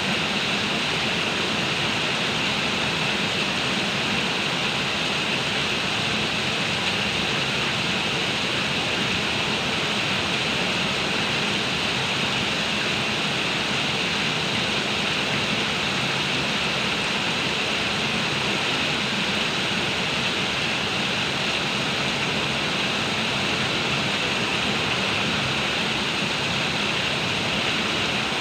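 Heavy rain pouring down in a steady, even hiss with no letup.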